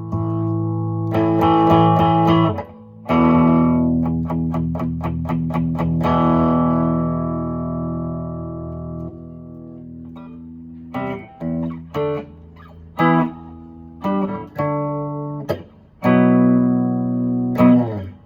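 Mexican-made Fender Stratocaster electric guitar being played: ringing chords, a run of quickly repeated picked strokes that rings on, then several short, choked-off chord stabs and a final held chord.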